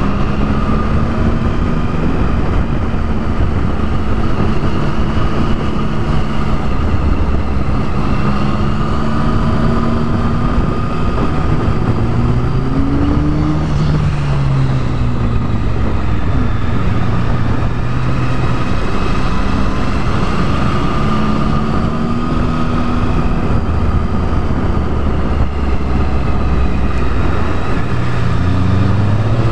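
Triumph Tiger 1050's three-cylinder engine running under way, its note rising and falling with the throttle through the bends, over a steady rush of wind and road noise.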